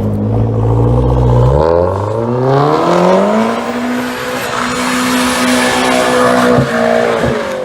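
Car engine accelerating: the pitch climbs steeply about two seconds in, then holds steady at higher revs, with a brief drop near the end like a gear change before it rises again.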